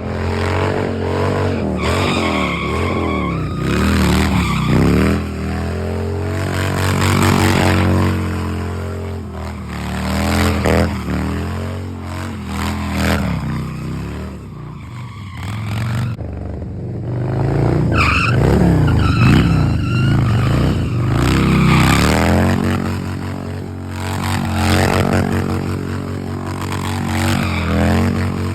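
Vehicle motors revving, their pitch rising and falling over and over as they speed up and slow down.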